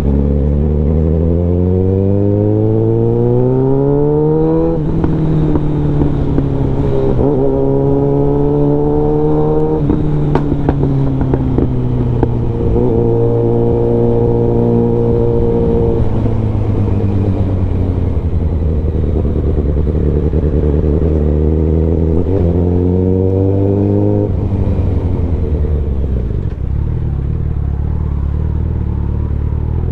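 Suzuki Bandit 650N inline-four with a full aftermarket exhaust, ridden through the gears. The pitch climbs under throttle and drops at shifts about 5 and 10 seconds in, holds steady, then falls away as the bike slows. It pulls up again around 22–24 seconds before settling to low revs, with a fresh rise right at the end.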